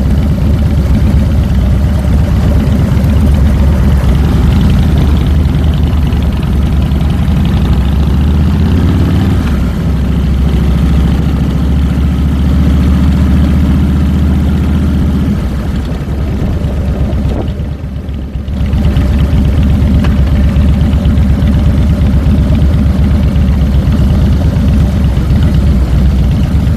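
2007 Harley-Davidson Fat Boy's Twin Cam 96 V-twin engine running under way, picked up close from the handlebars. Its note rises about eight seconds in and holds, eases off after about fifteen seconds, dips briefly, then comes back up, as with throttle changes and a gear shift.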